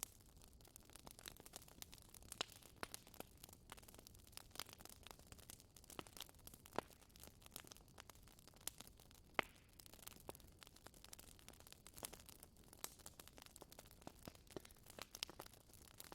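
Wood fire in a fireplace crackling faintly, with irregular small pops over a low hiss; the sharpest pop comes about nine seconds in.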